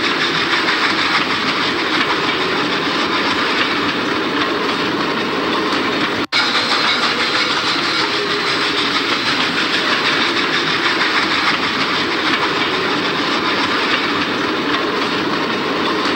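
Passenger cars of a train rolling past at speed: a steady loud rush of wheels on the rails. The sound cuts out for an instant about six seconds in.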